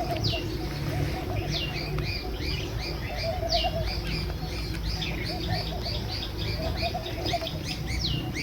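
Several birds calling together: quick downward-sweeping whistles repeated every second or two among many short high chirps, with a lower warbling call recurring in brief phrases, over a steady low rumble.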